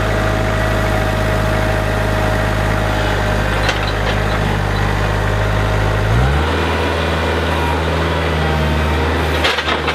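Tractor engine running steadily, then stepping up to a higher engine speed about six seconds in and holding there. A few short knocks come near the end.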